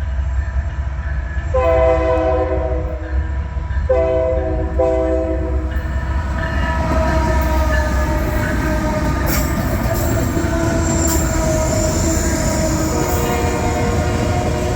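Norfolk Southern diesel freight locomotive sounding its multi-chime air horn: one long blast, then two shorter ones. After that comes the steady running of the locomotives and cars passing close by, over a constant low rumble.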